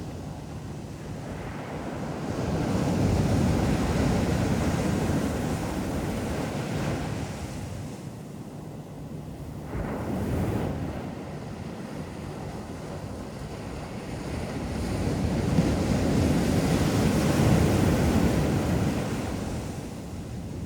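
Ocean surf breaking and washing up the beach, rising and falling in two big swells about twelve seconds apart, with a smaller wash in between.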